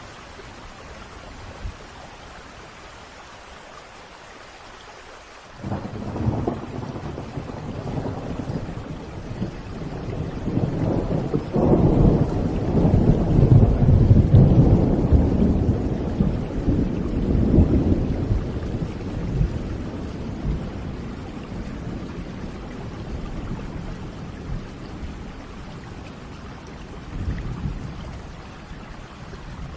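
Thunderstorm with steady rain. A thunderclap breaks about five seconds in and rolls into a long, deep rumble. A second crack comes a few seconds later, and the thunder peaks and then slowly dies away. A fainter rumble comes near the end.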